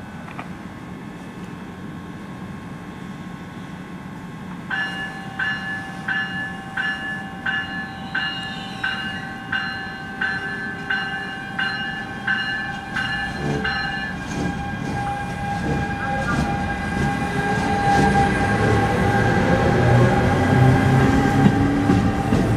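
NJ Transit ALP-45DP electric-diesel locomotive pulling out with its bell ringing about twice a second for roughly ten seconds. The rumble of the train then grows louder, with a rising whine as it picks up speed and the bi-level passenger cars roll past.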